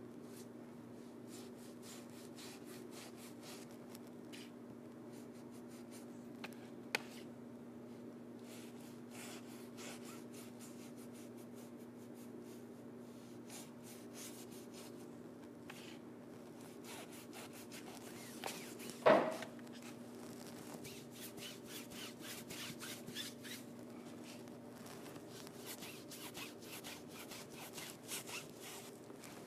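Paintbrush strokes brushing and scratching over a painted stage backdrop, over a steady low hum. A sharp click comes about a quarter of the way in, and a louder knock about two-thirds of the way through.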